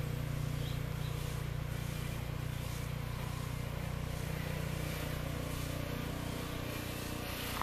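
An engine running steadily, a low, even drone with no change in pitch.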